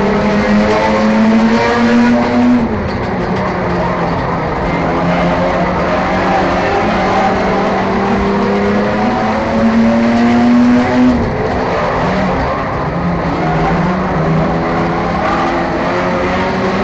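Enduro race car engine running hard at racing speed. Its pitch climbs steadily and drops sharply twice, about three seconds in and about eleven seconds in, as the throttle lifts, then climbs again.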